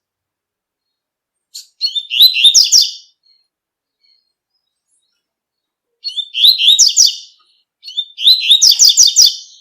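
Double-collared seedeater (coleiro) singing the tui-tui song: three phrases of rapid, high repeated notes, each about a second and a half long, with short gaps between them.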